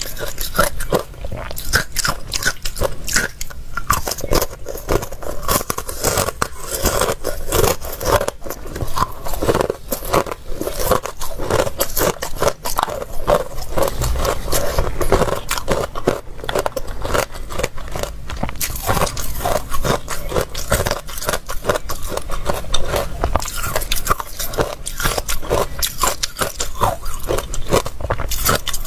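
A person biting and chewing crunchy ice close to the microphone, crunching rapidly and without a break.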